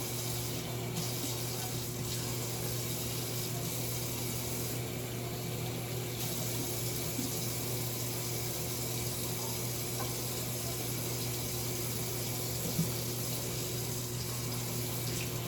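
Kitchen faucet running steadily into the sink while hands are washed under it.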